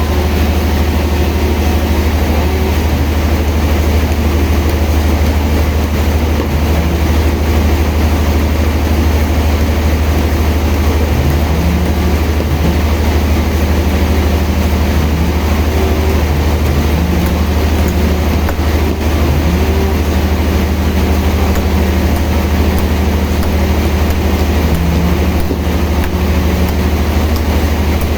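Sawmill machinery running with a steady, loud, low hum, with brief rising tones now and then.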